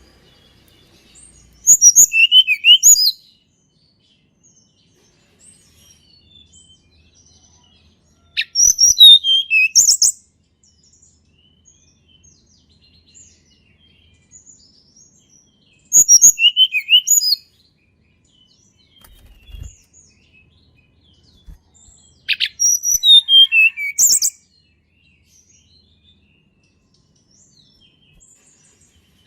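A tledekan gunung songbird singing a short, high-pitched song phrase of quick falling notes, repeated four times at about seven-second intervals with pauses between.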